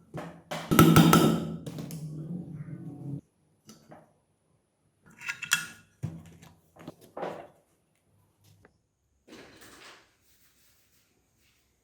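Metal parts clinking and knocking as they are handled and set down on a hard surface: a longer, louder clatter in the first three seconds that stops abruptly, then scattered single clinks and knocks.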